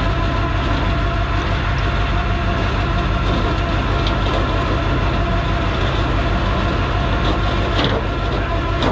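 A truck engine running steadily close by, with a constant low, fast pulsing and several steady whining tones over it.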